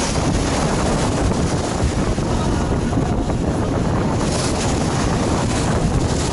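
Star Ferry under way, heard from the lower deck just above the waterline: a steady low rumble of the ferry's engine with water rushing past the hull and wind buffeting the microphone. The hiss swells for a couple of seconds past the middle.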